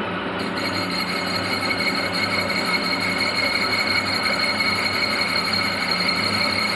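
Metalworking machine running steadily, with a low hum and a steady high whine; a brighter hiss joins about half a second in.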